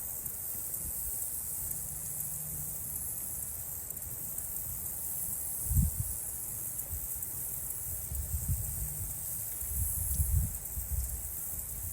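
Insect chorus: a steady, high-pitched shrill drone. Low rumbles break in briefly about six seconds in and again for several seconds near the end.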